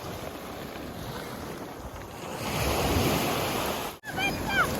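Sea waves washing over a pebble beach, with wind buffeting the microphone; the surf swells louder about halfway through. Near the end the sound cuts out briefly and a few short high chirps follow.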